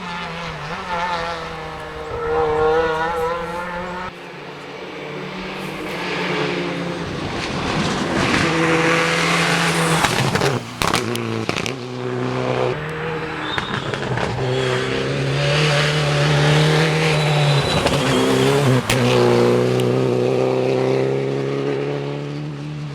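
Rally car engine revving hard on a special stage, its pitch climbing and dropping again and again as it works through the gears. Sharp cracks come in a cluster about halfway through and once more near the end.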